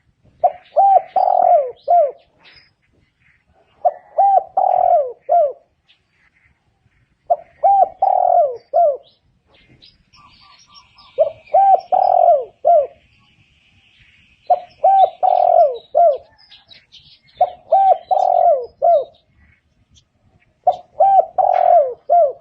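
Spotted dove cooing: seven phrases of several notes each, one every three to four seconds, with faint chirps of small birds behind.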